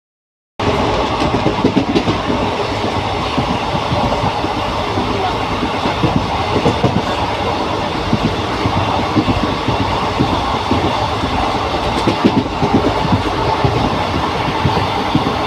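A moving passenger train heard from on board: a steady rumble of wheels on the rails with rattling and many small knocks from the carriage.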